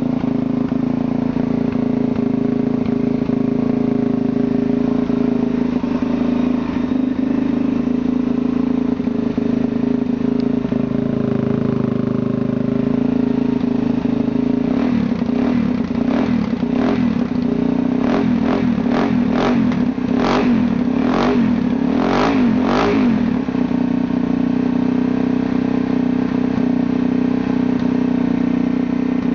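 Suzuki DR-Z400SM single-cylinder four-stroke engine idling steadily through an aftermarket FMF Powercore 4 exhaust and PowerBomb header. About halfway through comes a run of about a dozen quick throttle blips with sharp pops, coming faster toward the end, before it settles back to idle.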